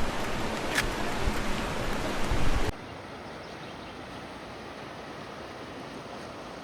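Steady rush of falling water, louder with a low rumble for the first two and a half seconds, then cutting abruptly to a quieter, even rush.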